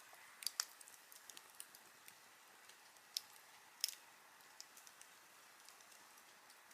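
Wood campfire crackling: a faint steady hiss with scattered sharp pops, the loudest about half a second in and just before four seconds.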